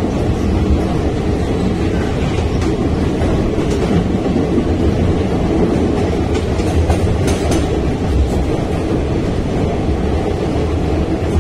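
Passenger train running through a tunnel, heard from inside a coach: a loud, steady rumble of wheels on the rails, with a few faint clicks now and then.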